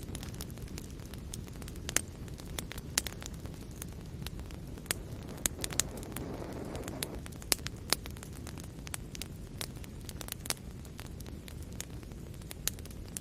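Fire in a fireplace crackling, with sharp pops scattered irregularly over a low, steady rumble of flames. A brief hiss swells about halfway through.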